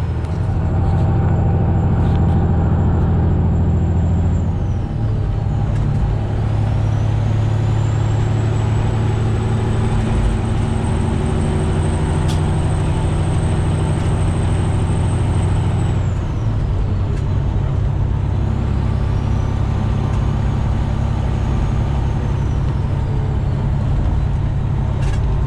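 Semi truck's Detroit Series 60 12.7-litre diesel engine running under way, heard from inside the cab, its note changing about five seconds in and again around sixteen seconds.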